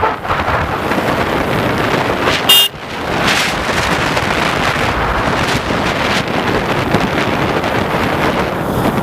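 Heavy wind rush on the microphone of a moving motorcycle, a steady noise with no clear engine note. A short, loud horn beep sounds about two and a half seconds in.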